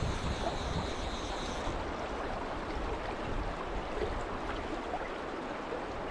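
Steady rush of Penns Creek's flowing water, with a low rumble underneath.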